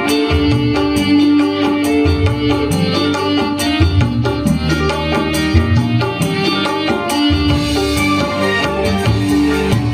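Dangdut koplo music played by a band: a busy kendang hand-drum rhythm under a held melodic line.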